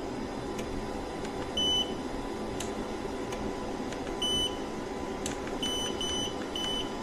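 Electronic beeps from a treadmill console, all at one high pitch: two spaced beeps, then four in quick succession near the end. Under them runs the faint, steady hum of the foldable treadmill's motor as the electric incline lowers the deck, a sound described as very quiet.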